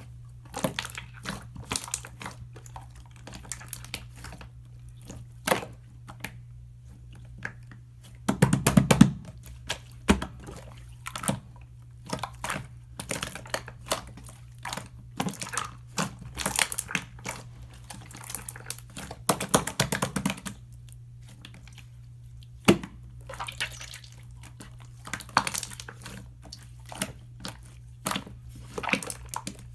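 Close handling sounds of paint marbling: irregular light taps and clicks of tools and paint, with louder rustling twice, about eight seconds in and near the twenty-second mark, over a steady low hum.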